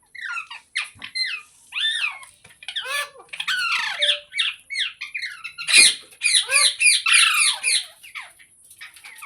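Green rose-ringed parakeet squawking and chattering in a rapid string of short, shrill calls, densest and loudest from about six seconds in.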